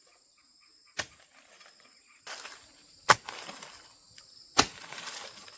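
A digging tool striking soil three times, each strike a sharp thud, the later two followed by a brief rustle of loose earth being turned over while digging for earthworms.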